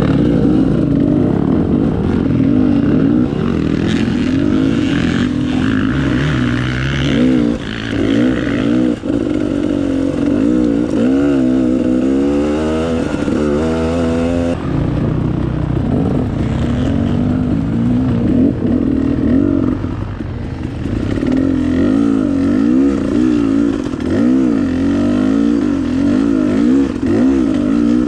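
Dirt bike engine revving up and down over and over as it is ridden along a trail, the pitch rising and falling most rapidly about halfway through.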